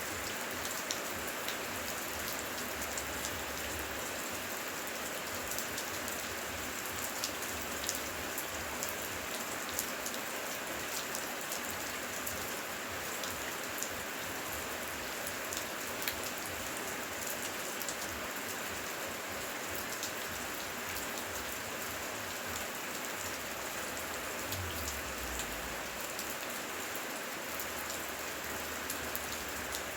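Heavy rain falling steadily, a dense hiss with many individual drops ticking sharply through it.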